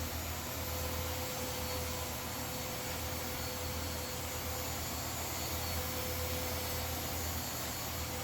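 A small motor running steadily, with an even hiss over a low hum, after the spray gun has stopped spraying.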